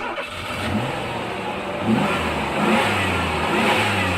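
Car engine revving and accelerating, its pitch rising a few times.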